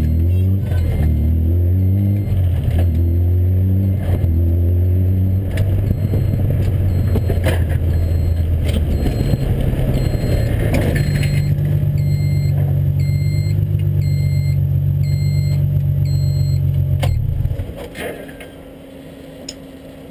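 BMW Z3 M race car's engine heard from inside the cabin at low speed. The revs rise and fall with throttle and gear changes in the first few seconds, then hold steady. The engine stops suddenly about 17 seconds in.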